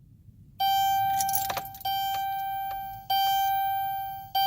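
Dashboard warning chime of a 2011 Dodge Grand Caravan, a bell-like tone that strikes and fades, sounding four times about every second and a quarter, starting about half a second in. A few light clicks of the ignition key are heard over the second chime.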